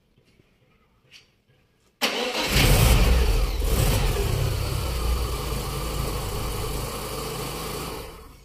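A Lada's 16-valve petrol engine cranked by its rebuilt starter motor about two seconds in. It catches almost at once with a brief rev flare and settles to a steady idle, fading out near the end. The crank has no growl, rumble or rubbing: the earlier noise came from broken magnets inside the starter rubbing against the armature, now cleaned and greased.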